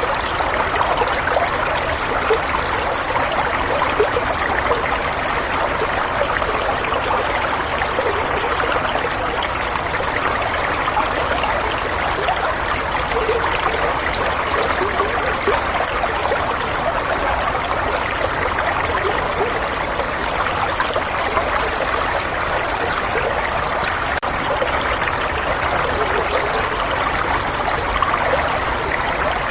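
Running water: a steady stream trickling and babbling without a break.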